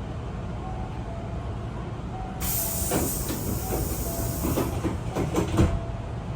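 Hankyu train's doors closing: a sudden burst of air hiss from the pneumatic door engines, several knocks, then a thump as the doors shut, over the steady low rumble of the standing train. A soft two-note chime repeats.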